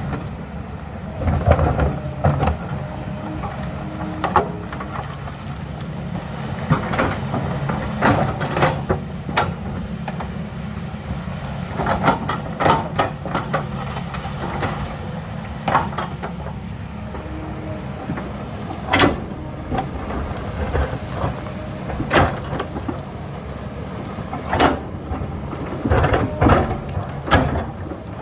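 Diesel engine of an earthmoving machine running steadily under load, with sharp knocks and clanks every second or two from the digging.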